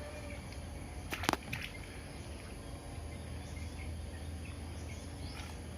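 Quiet background with a steady low hum, broken about a second in by a single sharp knock and a fainter click just after.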